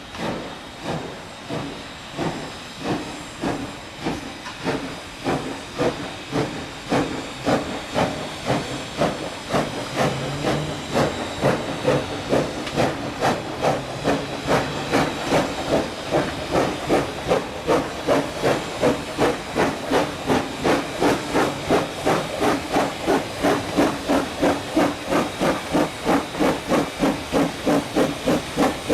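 Exhaust beats of the steam locomotive BB18¼ 1079 working hard, a regular chuff that grows louder and quicker, from about two beats a second to about three, as the engine gathers speed.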